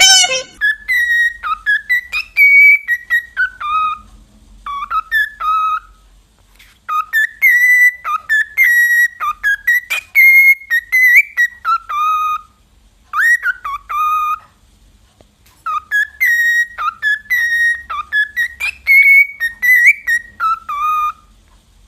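A parrot whistling a tune: the same short melody of quick notes three times over, with brief pauses between, each run ending on lower notes.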